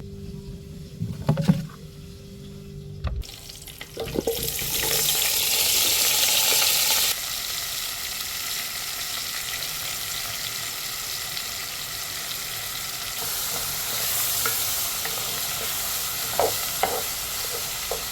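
Food frying in hot oil: after a few knocks of utensils, a sizzle starts suddenly about four seconds in. It is loudest for the first three seconds, then settles into a steady sizzle.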